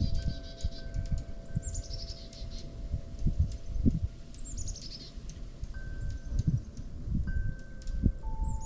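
A small songbird singing a short cascade of high notes that drop in pitch, repeated every few seconds, over low gusty rumble and soft sustained tones.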